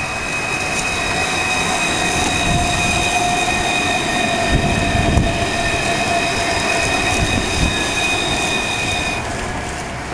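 Alstom Citadis tram running past on its rails: a low rumble that grows louder towards the middle, with a few heavier thuds, under a steady high whine that cuts off suddenly near the end.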